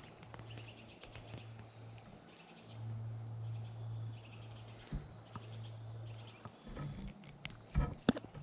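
Insects chirping faintly in a pulsing pattern, over a low hum that comes and goes in stretches. A few sharp knocks near the end are the loudest sound.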